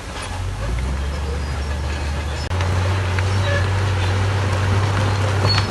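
Heavy diesel earthmoving machinery running: a steady low engine drone that drops in pitch about half a second in and rises again about two and a half seconds in.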